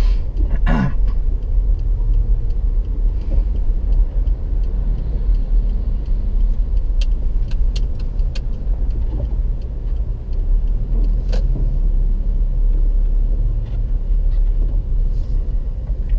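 Car driving in traffic, heard from inside: a steady low engine and road rumble, with a few light clicks about seven to eight seconds in.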